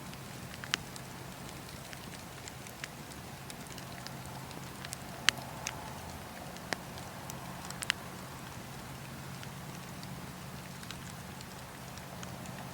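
Wood fire burning in a fireplace, crackling with scattered sharp pops over a steady low background. The loudest pop comes about five seconds in.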